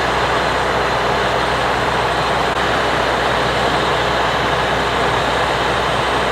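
A steady, loud roar of vehicle engines and road traffic, unbroken throughout.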